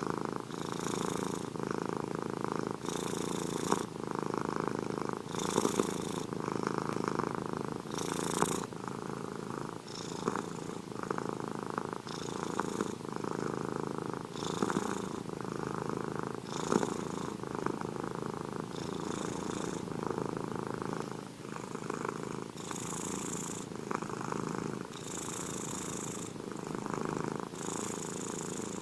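Domestic cat purring steadily and close up, the purr swelling with each breath about every two seconds.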